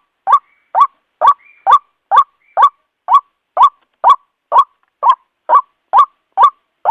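White-breasted waterhen calling: a steady series of short, harsh 'kwak' notes at about two a second, each rising slightly in pitch. This is the repetitive call used as a lure for the bird.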